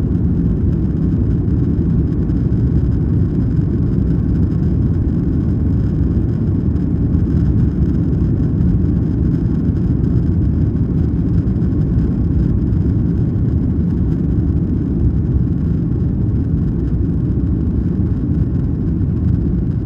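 Steady low rumble of airliner cabin noise in the climb after takeoff: jet engines and rushing air, even in level throughout.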